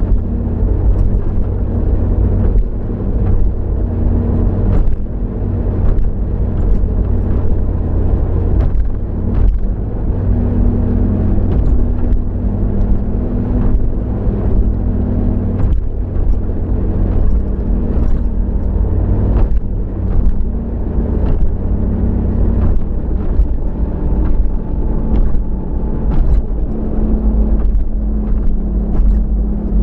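Steady low rumble of a car driving, engine and road noise heard from inside the cabin, with scattered faint ticks.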